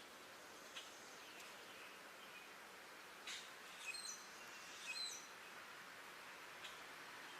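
Faint bird calls over a steady hiss: a few short, high chirps a little before the middle, with a few soft clicks scattered through.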